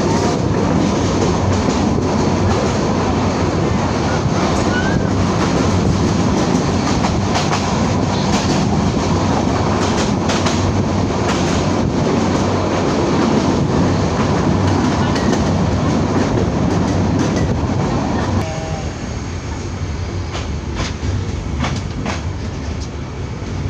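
Passenger train running at speed: a loud, steady rumble of wheels and carriages with irregular sharp clacks as the wheels pass rail joints. The rumble drops somewhat about eighteen seconds in.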